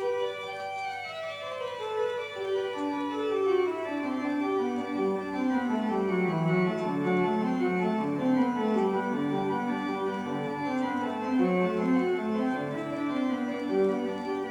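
Organ music played from a vinyl record through loudspeakers, starting abruptly with held chords and a falling line of notes over the first few seconds.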